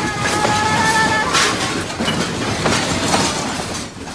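Loud rattling and clattering noise with many sharp knocks, with a steady high tone sounding for about the first second and stopping abruptly.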